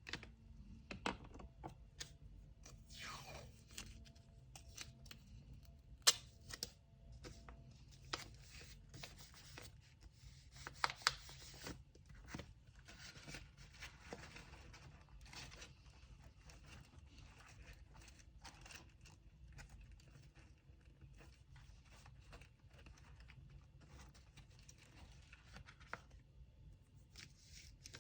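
Hands working with packing materials: paper and tape crinkling and being torn, with scattered light taps and clicks.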